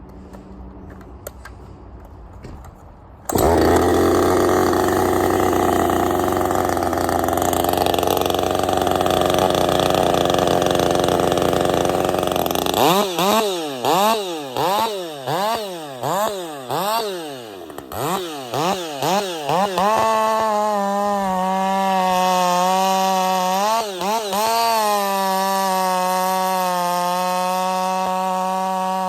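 Husqvarna 562 AutoTune two-stroke chainsaw comes in suddenly about three seconds in, running hard with a rough, dense sound as it cuts. Then it is revved up and down in quick repeated blips for several seconds, and near the end it is held at high revs with a steady whine.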